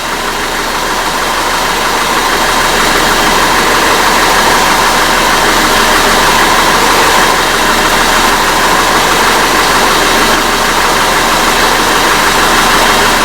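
Audi Q5 engine being revved, its sound climbing over the first few seconds and then held steady at raised rpm. It is running on freshly replaced spark plugs, with no misfire showing on any cylinder.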